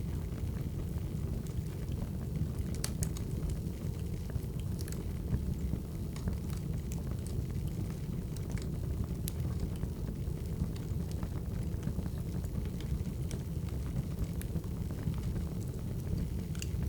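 Wood fire crackling: a steady low rumble with scattered sharp pops and snaps.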